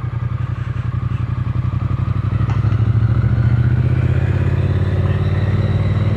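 Triumph Speed Twin 900's parallel-twin engine and exhaust running as the motorcycle is ridden at low speed, getting gradually louder over the first few seconds as it picks up a little, then holding steady.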